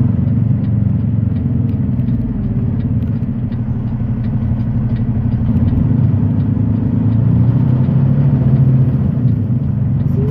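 Semi-truck diesel engine and road noise heard from inside the cab while driving: a steady low rumble.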